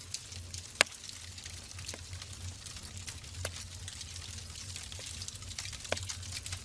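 Wood fire crackling in a fireplace: a steady patter of small pops with a few sharper snaps, the loudest about a second in, over a constant low rumble.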